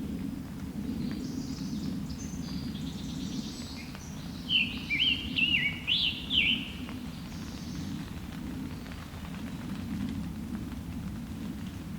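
A scarlet tanager singing a short run of quick, slurred phrases that rise and fall, loud and clear for a couple of seconds, over fainter songs of other birds and a steady low rumble.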